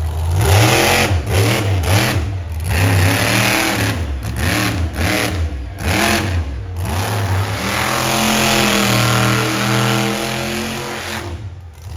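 Monster truck engine revving hard in a string of short throttle bursts with brief drops in between, then holding a longer, steadier rev from about eight seconds in that falls away near the end.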